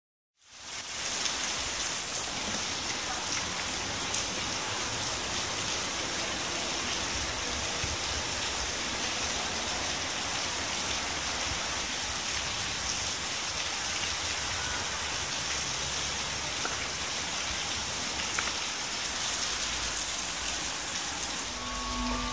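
Steady rain falling and splashing on a wet paved plaza, an even hiss of water that fades in over the first half second.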